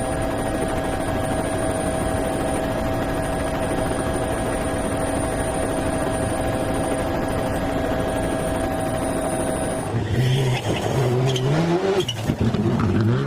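Rally car at speed: a steady, loud engine-and-road drone for about ten seconds, then the engine revving up and dropping back in steps as it shifts gears near the end.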